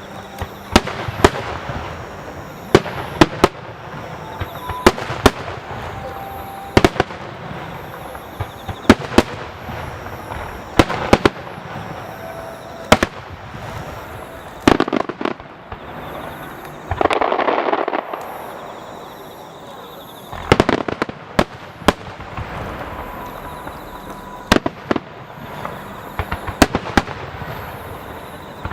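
Aerial fireworks shells bursting one after another, loud sharp booms every second or two over a steady rumble, with a louder rushing burst lasting about a second near the middle.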